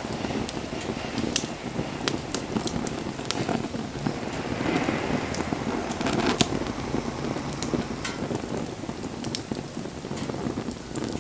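Wood campfire burning, with irregular sharp crackles and pops over a steady rushing hiss of the flames.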